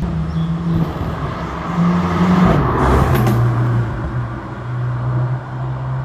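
Car engine running with a steady note; about two seconds in its pitch rises briefly and falls again, under a swell of road noise that is loudest around three seconds in.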